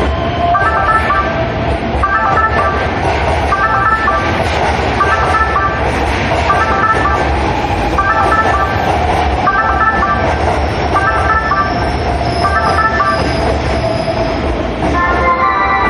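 Platform warning chime of Keihan Railway, a short figure of a few tones repeating about every 0.8 s, that goes with the 'train passing, stand back' announcement. It sounds over loud train noise with a steady whine. The chime stops near the end.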